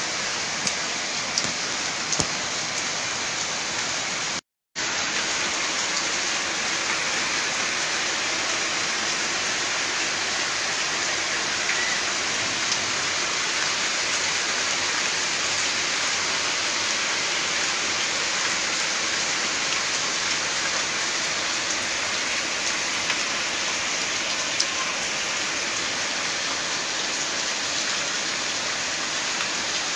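Heavy monsoon rain falling steadily, a dense, even hiss of rain on the ground and on standing floodwater. The sound drops out for half a second about four and a half seconds in.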